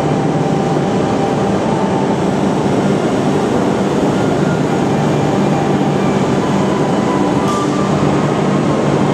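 Shinkansen train moving along the platform, a steady loud rushing noise with a low electric hum and faint whining tones from its motors.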